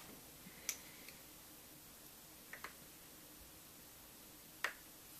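Three faint, sharp clicks spaced about two seconds apart over quiet room tone: small hard parts being handled.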